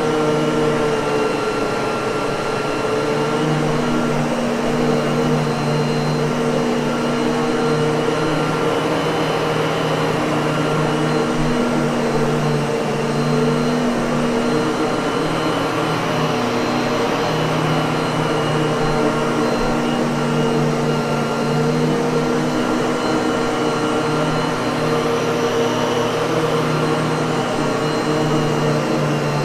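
Miele vacuum cleaner motor running steadily, a continuous rushing whoosh with a low hum.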